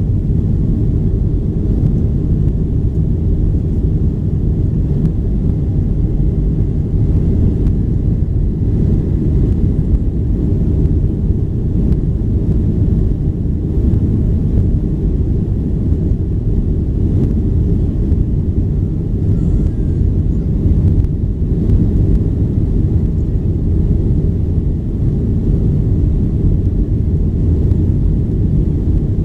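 Steady low rumble of a Boeing 737-800's CFM56 engines and rushing air, heard from inside the cabin.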